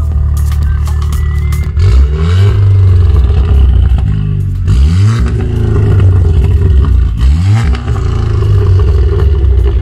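Volkswagen car engine revving hard, its pitch climbing three times, about two, five and seven seconds in.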